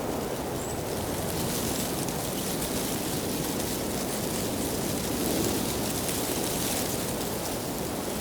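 Steady rush of water with a slight swell about five seconds in.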